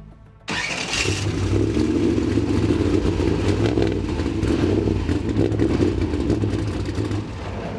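Trophy truck engine fired up about half a second in and running loud for several seconds, easing off near the end. Under the exhaust noise there is a knock that the crew take for a bearing knock, a big-end bearing that has spun.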